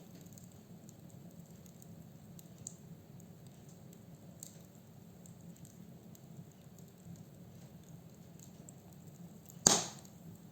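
Firewood burning in a fireplace, crackling with scattered faint ticks and one sharp, loud pop near the end.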